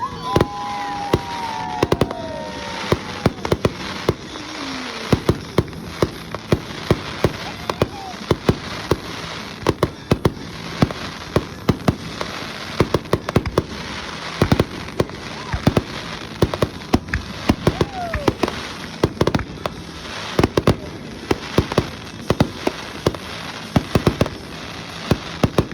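Fireworks show: aerial shells bursting in a rapid, irregular run of sharp bangs and crackles, with a few long falling whistles.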